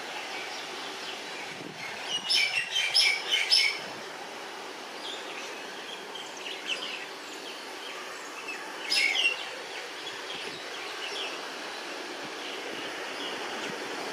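Birds chirping in quick clusters, loudest about two to four seconds in and again briefly about nine seconds in, over the steady running noise of an approaching WAG-9 electric locomotive hauling a car-carrier freight train.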